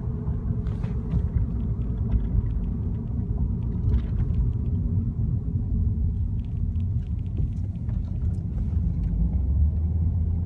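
Steady low road and engine rumble heard inside a moving car's cabin while driving, with a few faint ticks and rattles.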